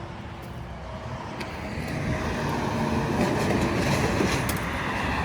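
A road vehicle approaching, its engine and tyre noise growing steadily louder from about two seconds in.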